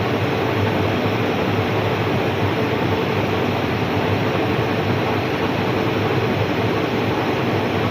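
Vertical turning lathe running, a steady mechanical hum and whirr with no change in speed.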